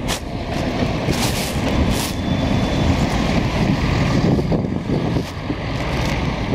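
Busy city street traffic: a steady low rumble of trucks and cars going by, with a few short hisses about one and two seconds in.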